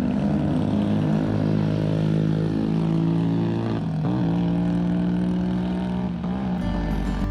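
Motorbike engine running under way at a steady pitch, the pitch dipping and picking back up about four seconds in.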